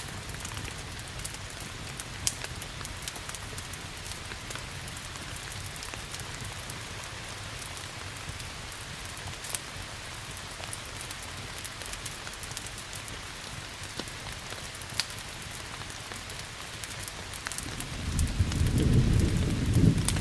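Steady rain hiss with scattered sharp crackles from a wood fire. Near the end a low rumble of thunder swells up and becomes the loudest sound.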